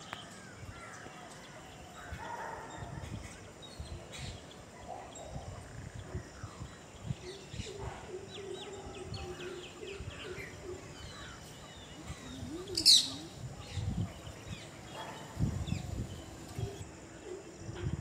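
Birds calling with scattered short chirps, and one loud, brief shrill call about thirteen seconds in.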